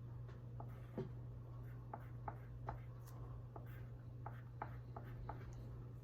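Drawing on paper: short, quick strokes of a drawing tool scratching across the page, irregularly spaced, over a faint steady low hum.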